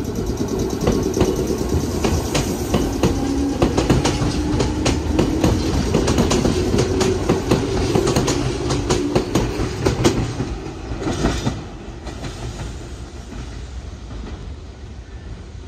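Red Meitetsu electric commuter train departing and running close past, its wheels clicking rapidly over rail joints above a steady low tone. The sound drops off after about eleven seconds as the train pulls away.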